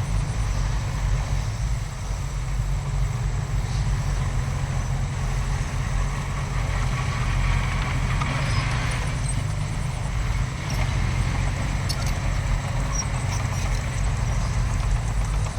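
Heavy diesel earthmoving machinery running steadily: a deep, continuous engine rumble.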